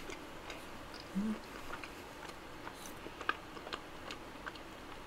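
Close-miked chewing of a macaron: soft, irregular mouth clicks and smacks, with a brief closed-mouth hum about a second in.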